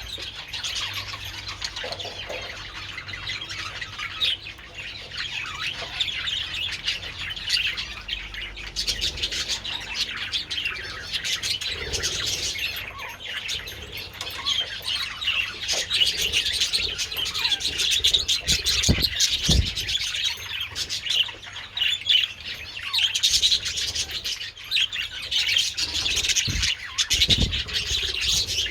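A colony of budgerigars chattering and warbling nonstop, many short overlapping chirps, getting busier in the second half. A few low thuds sound about two-thirds of the way through and near the end.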